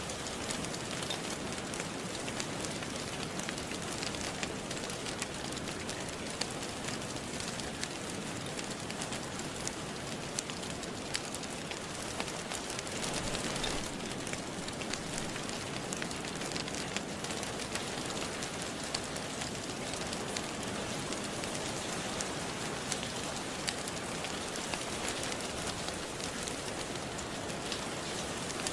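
Steady rain falling, with scattered sharp clicks and pops from a crackling wood fire.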